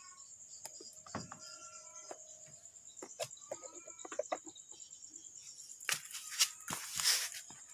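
Chickens clucking in the background over a steady high insect trill, with scattered clicks, then a louder cluster of clicks and a rustling clatter about six seconds in.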